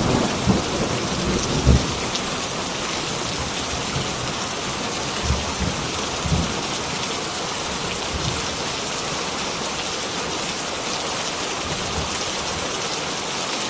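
Heavy rain falling steadily, with the low rumble of thunder dying away in the first couple of seconds and a few brief low thuds after.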